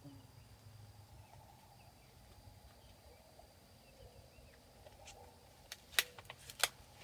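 Quiet outdoor background with faint bird chirps, then a few sharp snaps near the end: corn ears being broken off the stalks by hand.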